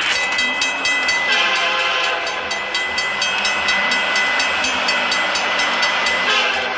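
Railroad level-crossing warning bell ringing rapidly, about five strikes a second, over a steady high tone.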